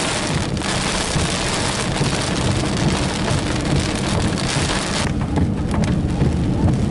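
Heavy rain pelting a moving car's windshield and roof in a severe thunderstorm, over the steady low rumble of the car on the road. The loud rain hiss drops off sharply about five seconds in.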